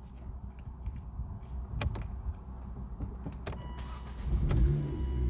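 Volvo S40 II's 1.8-litre four-cylinder petrol engine (B4184S11) on a test run: a low rumble with scattered clicks, swelling into a stronger, pitched engine note about four seconds in.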